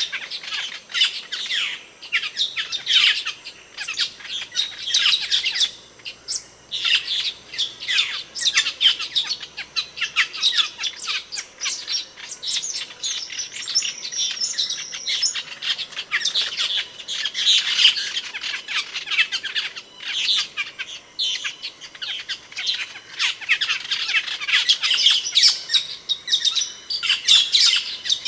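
Asian glossy starling calling: rapid high chirps and squawks in busy clusters of a second or two, broken by short pauses.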